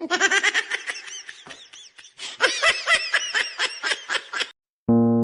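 A person laughing in quick, repeated bursts that rise and fall in pitch, cutting off suddenly near the end.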